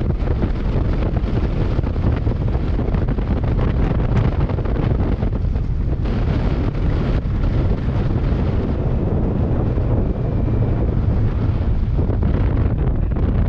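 Heavy wind noise buffeting the microphone of a moving Kawasaki Versys 650 motorcycle, with its parallel-twin engine running steadily underneath.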